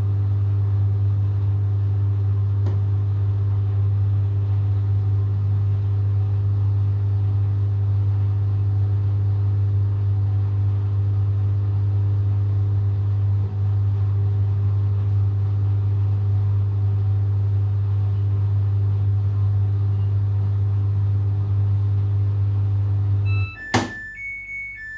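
Samsung WW70T4020EE front-loading washing machine spinning at 1200 rpm with clothes: a steady, loud hum with a low tone. Near the end the hum cuts off, followed by a click and the first electronic beeps of the machine's end-of-cycle tune.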